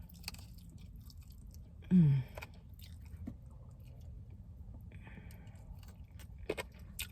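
A person chewing fried chicken close to the microphone, with small wet mouth clicks. There is a short, low, falling hum about two seconds in.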